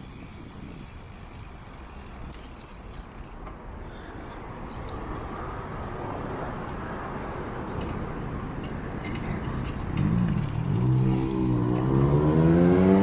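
A motor vehicle drawing closer, its sound growing steadily louder over a steady rushing noise; from about ten seconds in its engine note becomes clear and rises in pitch as it accelerates.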